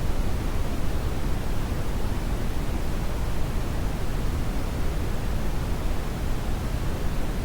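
Brown noise: a steady, even synthetic noise heavy in the low end, fading toward the high end, with no changes.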